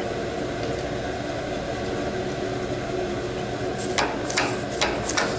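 Steady hum of workshop machinery, with a run of short sharp taps and clicks starting near the end while a steel workpiece is being centred under a dial indicator on a milling machine.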